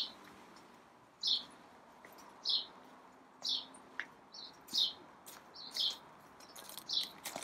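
A garden bird repeating a short, high chirp about once a second, with fainter calls from other birds in between.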